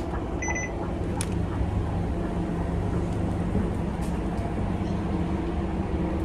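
Inside a Scania K280UB city bus, its Scania DC9 five-cylinder diesel running with a steady low hum and cabin rattle. A short electronic beep sounds about half a second in, followed by a single click.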